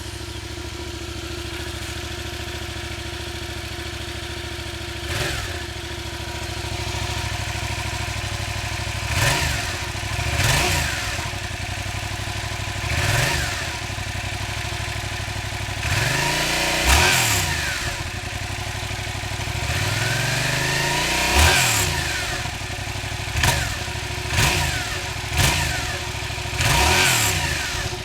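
Yamaha FZ-07's 689 cc parallel-twin engine idling through its stock exhaust, blipped about ten times: each rev climbs and falls back to idle, with a longer, held rev about two-thirds of the way through.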